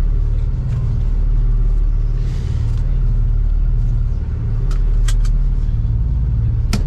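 Freightliner box truck's engine running with a steady low rumble, heard from inside the cab, with a few light clicks in the second half.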